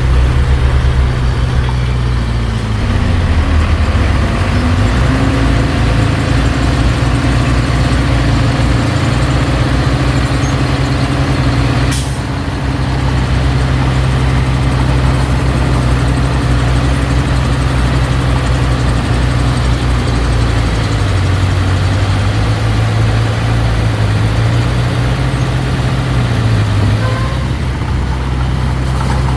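Diesel engine of heavy construction machinery running under varying load, its pitch rising a few seconds in and dipping twice near the end, with one brief sharp sound about twelve seconds in.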